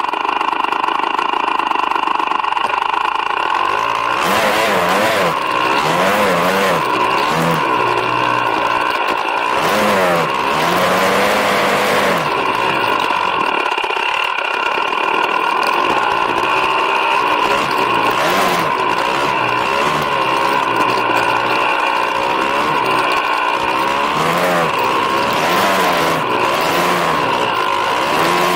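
Snowbike engine running under load, its pitch rising and falling again and again as the throttle is worked, with a steady high whine from the drivetrain and track.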